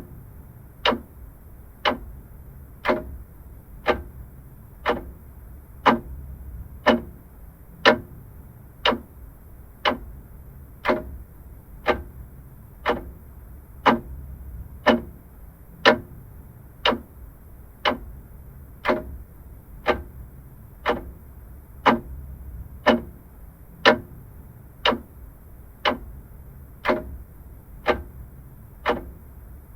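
Vintage mechanical clock ticking steadily, about one tick a second, each tick a short sharp click.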